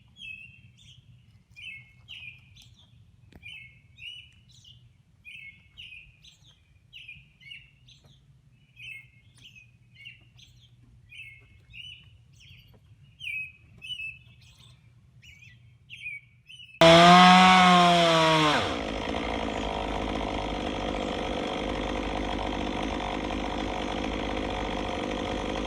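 A songbird repeating a short phrase roughly every second over a faint low hum. Then a sudden change to a gas chainsaw, which revs up and back down and settles into a steady run.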